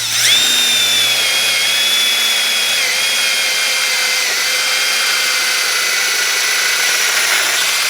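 Electric drill running continuously for nearly eight seconds while cutting a rubber washer, its high whine dipping slightly in pitch a couple of times as it takes load.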